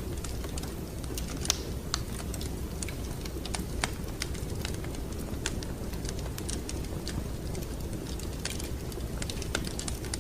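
Wood fire crackling in a fireplace: irregular sharp pops and snaps over a steady low rumble, with one louder pop about a second and a half in.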